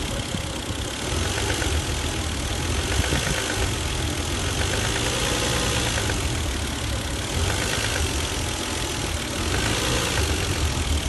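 Toyota 1JZ-GE VVT-i 2.5-litre straight-six running steadily at idle with a knock from inside the engine.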